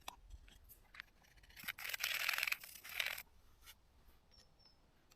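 Scraping from work on the outboard's thermostat housing, a rough rasping stretch of about a second and a half starting near two seconds in, with a few small clicks of parts and tools before and after.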